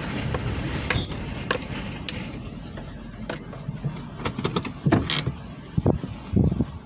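Irregular light metallic clinks and jangles over a low rumble of wind on the phone's microphone, with a few louder wind buffets near the end.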